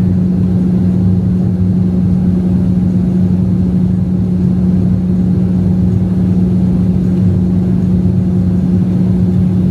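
Boeing 737-700 cabin noise in flight: a steady, loud engine and airflow drone with a constant low hum.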